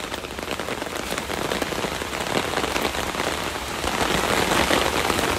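Rain pattering on a large patio umbrella overhead, a dense run of small drop ticks that gets a little heavier over the few seconds: the first rain of an oncoming thunderstorm.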